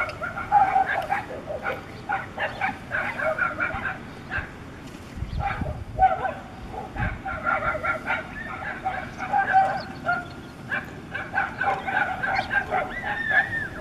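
Dogs fighting a wolf: a steady run of high-pitched yelps and whining cries, thinning briefly about four seconds in before picking up again.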